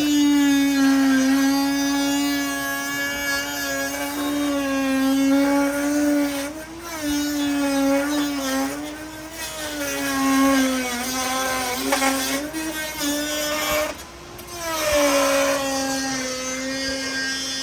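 Handheld electric power tool running with a high, steady whine whose pitch wavers as the load changes, easing off briefly twice.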